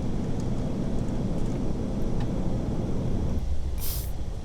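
Steady low rumble of flight noise inside an Airbus A380 cockpit on approach, easing a little past three seconds in, with a brief hiss about four seconds in.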